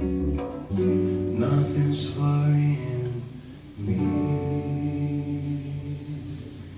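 Guitar playing the closing chords of the song; a final chord is struck about four seconds in and left to ring, slowly fading.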